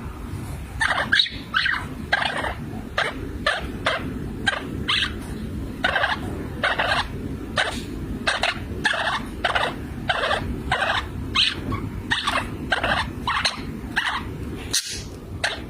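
Birds calling again and again in short calls, about two a second and at times overlapping, over a steady low rumble.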